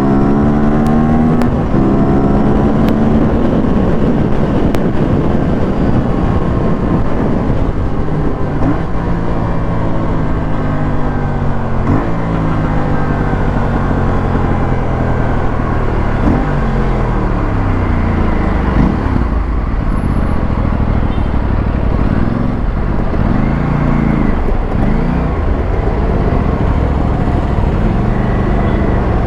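Aprilia RS457's parallel-twin engine and exhaust under way on the road, the pitch repeatedly rising under throttle and dropping back at gear changes and throttle lifts.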